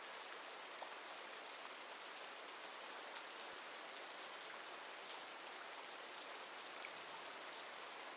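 Steady rainfall with faint scattered drop ticks, without thunder or wind.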